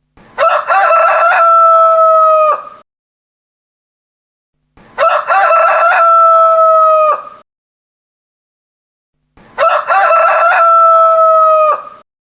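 Rooster crowing three times, about four and a half seconds apart, with dead silence between. Each crow opens with short broken notes and ends in a long held note that drops off at the end.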